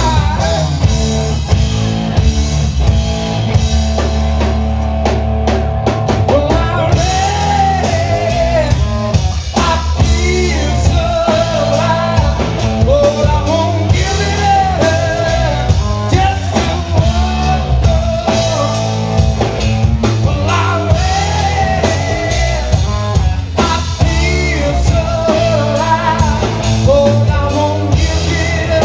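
A live rock-blues band playing at full volume, with a wavering, pitch-bending melody line over a steady driving backing.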